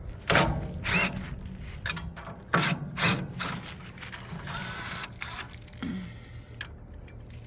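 A wood chipper engine's air filter being cleaned off by hand: two pairs of sharp knocks, then a brushing, hissing scrape.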